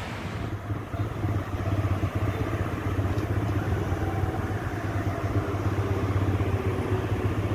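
TVS Raider 125 motorcycle's single-cylinder engine running at a steady cruising speed as the bike is ridden along a highway, a steady low hum.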